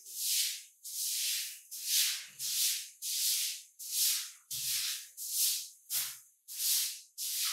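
Rhythmic swishing cleaning strokes, a brush or cloth rubbing over a surface, about two strokes a second, some with a soft low thud.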